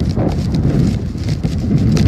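Strong, gusting storm wind blasting across the microphone in a snowstorm, a loud low rumble that rises and falls, with scattered crackles on top.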